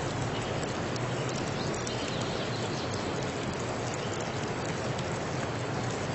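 Steady water noise: a dense, even hiss with scattered small ticks.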